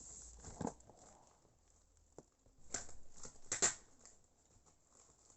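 Packaging of a newly delivered power drill being handled and opened by hand: a knock, a sharp click, then a stretch of rustling and scraping that is loudest about three and a half seconds in.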